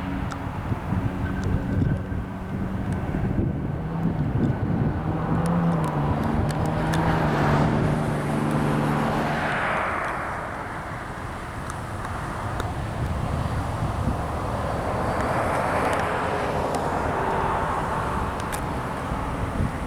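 Boeing 737-700 jet airliner's CFM56 turbofans on landing approach: the jet noise swells to a peak about halfway through and fades, then rises again briefly a few seconds later. A low steady hum of several tones underlies the first half.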